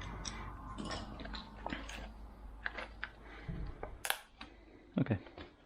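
Small metal tools and screws clicking and rattling as they are sorted and picked up from a toolbox, with one sharper click about four seconds in.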